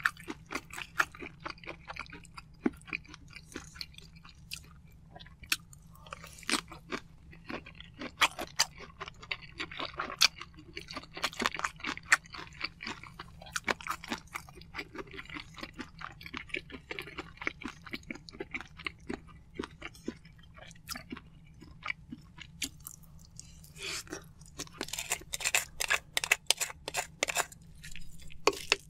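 Close-miked chewing of marinated shrimp and rice, with many sharp, wet mouth clicks and smacks. The clicks come thickest near the end.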